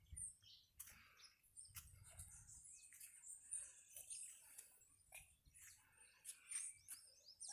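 Faint chirping of small birds: many short, high calls scattered throughout, with a low rumble near the start and again around two seconds in.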